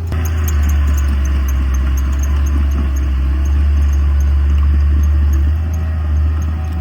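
Heavy earthmoving machine's diesel engine running with a steady low drone and light clatter; it grows louder just after the start and eases off about five and a half seconds in.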